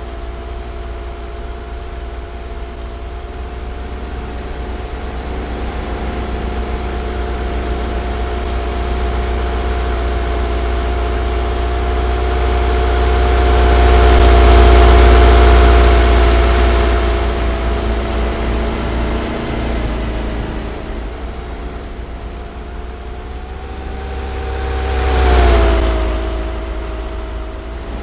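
Ice cream step van driving, its engine giving a steady droning hum over a low rumble. The sound swells to its loudest about halfway through, then again briefly near the end, where the pitch dips as the van passes.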